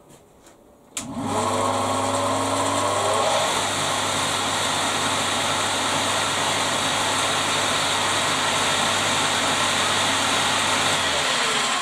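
Electric lathe motor, running unloaded with its belt off, switched on with a click and spinning up with a rising whine over about two seconds, then running steadily with a mains hum. Near the end it is switched off and winds down with a falling whine. Freshly rewired, it still seems lazy to its owner.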